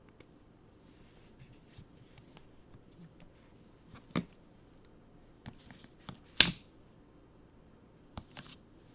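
Hands handling a boxed pin badge set and its packaging: scattered small clicks and rustles. A sharp click comes about four seconds in, and the loudest, slightly longer clack about six and a half seconds in.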